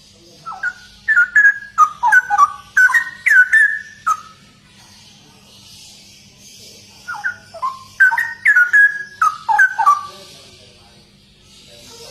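Straw-headed bulbul (cucak rowo) singing: two loud phrases of rapid whistled notes jumping up and down in pitch, the second starting about seven seconds in, with a third beginning near the end. A faint steady hum and a high hiss lie underneath.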